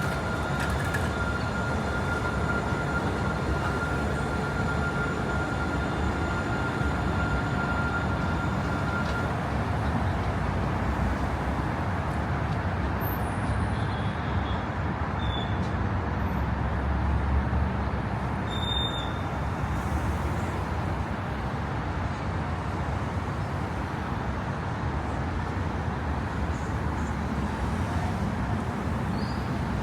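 Steady city traffic noise: a continuous low rumble of vehicles, with a faint high steady tone that stops about nine seconds in.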